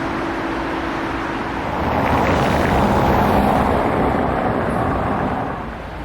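Road traffic: a motor vehicle's noise swells for about three seconds in the middle, then drops away.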